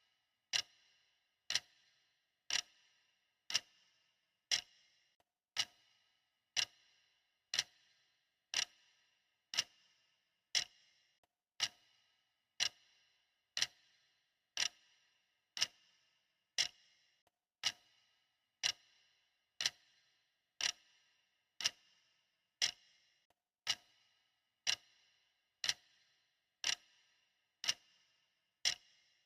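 Clock ticking steadily, about one sharp tick a second, each with a brief ringing tail.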